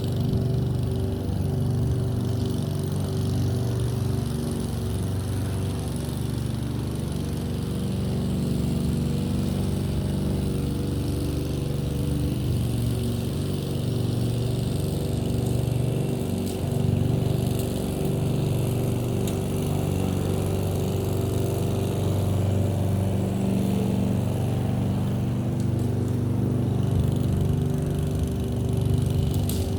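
Lawn mower engine running steadily, its pitch wavering a little up and down as it works.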